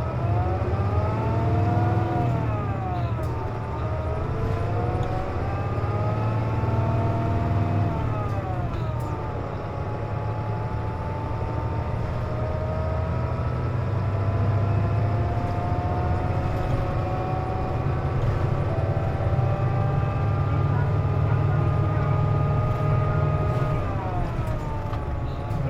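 Inside a KC-JP250NTN route bus under way: a low engine drone with a whining tone over it. The whine rises and falls three times, going up as the bus gathers speed and dropping as it slows, with a long slow climb through the middle. This is the odd noise the bus is known for, which the uploader ties to the air conditioning running.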